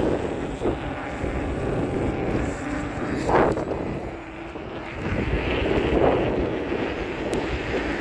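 Electric mountain bike being pedalled hard over a rough track: a steady drive-motor whine under tyre and wind noise, with two brief louder rushes about three and six seconds in.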